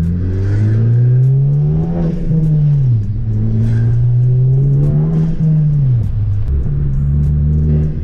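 Turbocharged car engine accelerating through the gears, heard from inside the cabin: the pitch rises, drops at an upshift just before three seconds in, rises again and drops at a second upshift about six seconds in, then holds steady.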